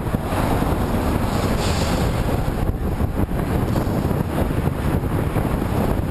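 Wind buffeting the microphone of a camera on a moving bicycle ridden into a headwind: a steady, loud, low rush of noise.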